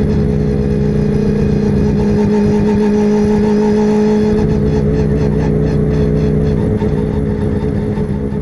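Car engine running steadily at an even pitch, loud and unchanging.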